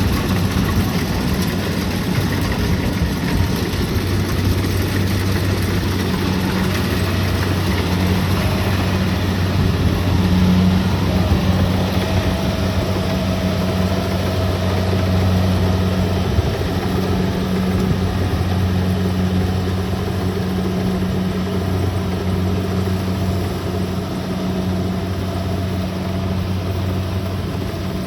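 Kubota DC-70 Plus combine harvester running steadily with a constant low engine hum, a faint higher whine joining about halfway through.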